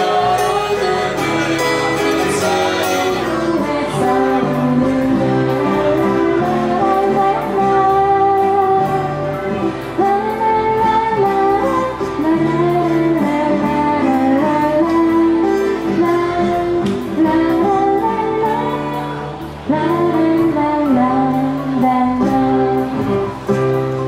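A live acoustic band playing a song, with a woman singing lead over a strummed acoustic guitar and an electric keyboard.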